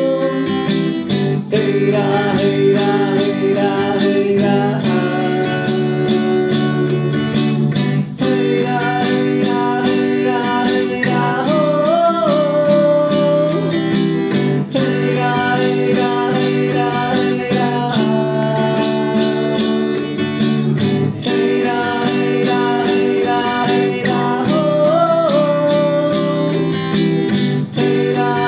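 Instrumental music: steady strummed acoustic guitar with a short melodic figure that returns twice.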